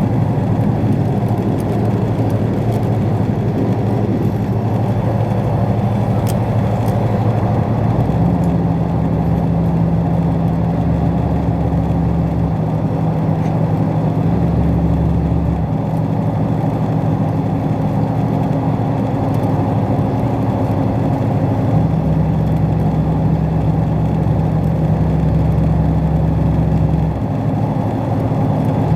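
Steady running rumble of a moving passenger train, heard from inside the carriage, with a low engine drone that comes and goes several times.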